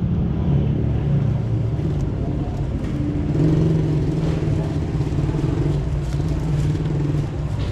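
A vehicle engine running steadily at idle: an even, low hum.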